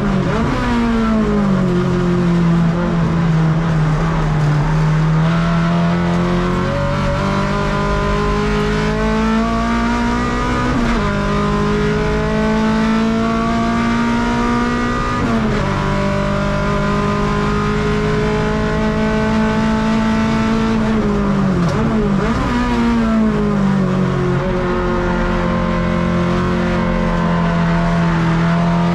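Honda K24A four-cylinder engine of a Civic EG6 race car under hard racing load, heard from inside the cabin. Its note holds high and climbs slowly, then dips sharply and climbs again several times: near the start, at about 11 and 15 seconds, and again around 22 seconds.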